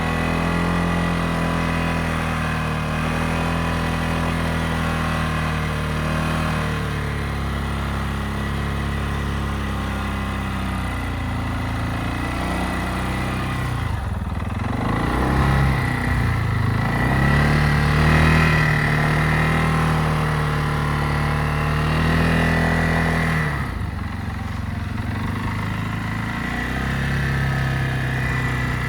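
ATV engine running steadily, with its revs dropping and climbing again twice, and a thin steady whine above the engine note.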